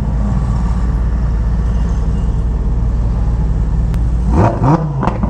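Engine idling with a deep, steady rumble, then revving with a quick rise in pitch about four and a half seconds in.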